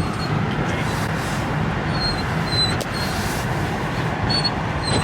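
Steady rumble of a car's engine and tyres heard from inside the moving cabin, with a few faint short high chirps.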